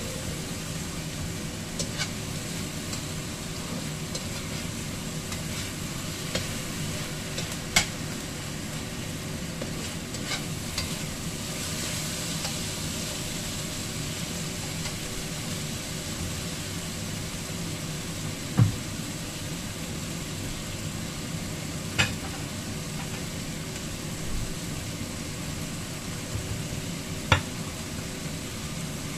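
Minced pork mixture sizzling steadily in a stainless steel frying pan while a metal slotted spatula stirs and scrapes it, with a few sharp clinks of the spatula against the pan.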